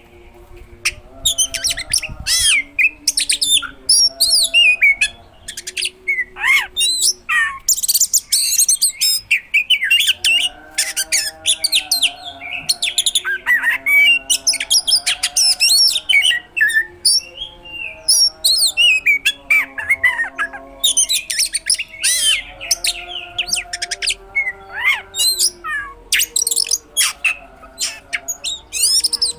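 Oriental magpie-robin (kacer) singing nonstop: a dense stream of rapid chirps, trills and sharp gliding whistles full of mimicked calls, with a lower, steadier warble running underneath much of it.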